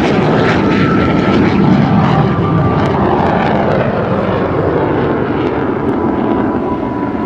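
MiG-17PF's afterburning Klimov VK-1F turbojet making a low pass with the afterburner lit: a loud, steady jet noise that swells about two seconds in and then eases slowly.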